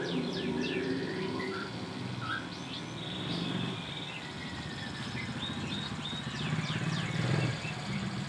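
Small songbirds chirping: a steady series of short, quick, falling notes, over a low steady hum.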